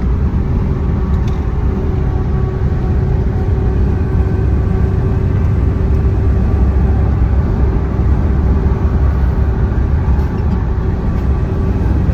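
Truck engine and road noise heard inside the cab while driving: a steady low rumble with a faint steady hum.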